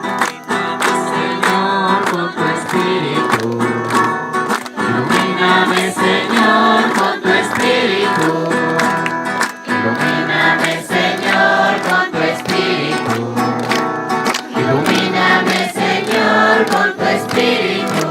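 Group of voices singing a Spanish hymn in unison to strummed acoustic guitar.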